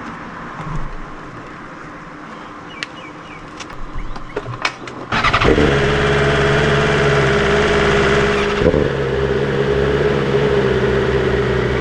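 A BMW S1000RR's inline-four engine starts about five seconds in and settles into a steady idle, after a few light clicks and knocks.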